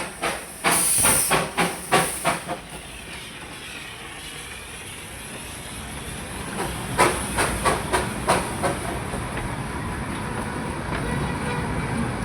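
Darjeeling Himalayan Railway narrow-gauge steam locomotive chuffing. A hiss of steam and a quick run of exhaust beats in the first two and a half seconds, then a steadier rumble, and another run of chuffs about seven seconds in.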